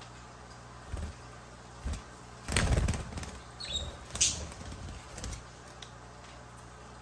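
A budgie fluttering its wings in one short flurry about two and a half seconds in, with a few soft knocks before and after and a brief high chirp.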